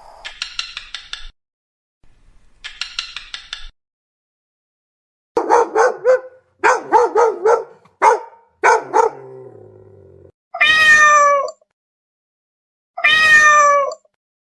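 A cat meowing twice near the end, each meow long and falling in pitch. Before that come a quick series of short yowling or yelping calls and, at the start, two bursts of rapid high chattering.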